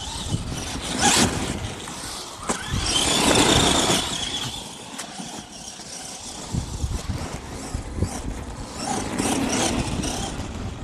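Brushed electric motors of Arrma Gorgon RC monster trucks whining as the trucks accelerate in surges. The longest and loudest surge comes about three seconds in, with a shorter one near the start and another near the end, over a steady rumble of wind on the microphone.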